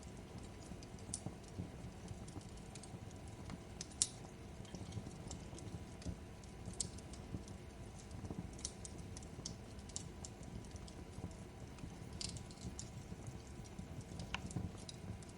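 Fireplace crackling: a steady low rumble of the burning fire with scattered, irregular sharp pops and snaps, the loudest about four seconds in.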